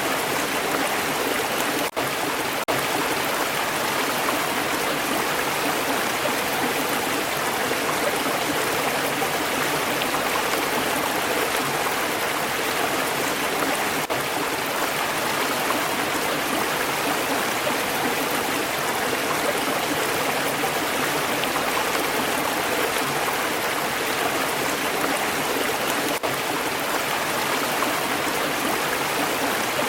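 Stream water flowing steadily, a constant even rush and babble with no change throughout.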